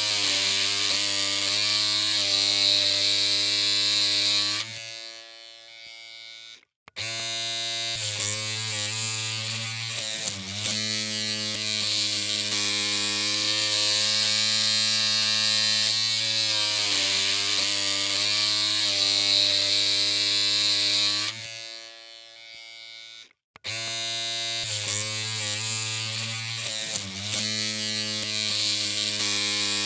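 Electric hair clippers running with a steady buzzing hum. The hum cuts off about five seconds in and again about twenty-one seconds in, coming back on roughly two seconds later each time, and its pitch briefly wavers twice.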